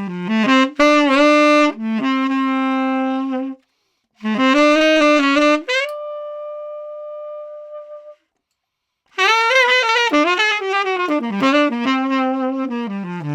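Conn 10M tenor saxophone played unaccompanied with a Boston Sax Shop black box reed (thick tip, full heart, meant for a dark, full tone): short jazz phrases, then a long held note that fades out about six seconds in, a brief pause, and a quicker run of notes.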